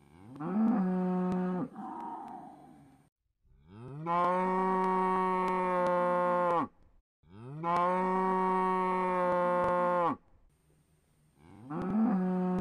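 A cow mooing four times. First comes a short moo that rises in pitch and ends in a breathy exhale, then two long, steady moos of about three seconds each, and near the end another short rising moo.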